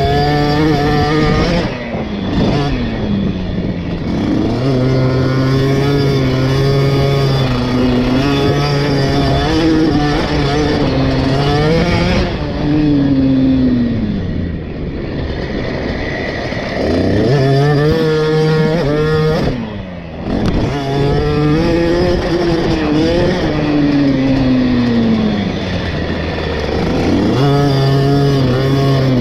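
KTM 50 SX two-stroke single-cylinder engine ridden hard around a motocross track, revving up and dropping back again and again. The throttle is shut off sharply a few times, most clearly about two-thirds of the way through, before the engine picks up again.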